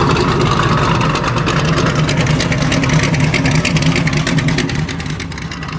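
A car's engine running with a loud exhaust, a rapid, even pulsing that eases slightly near the end.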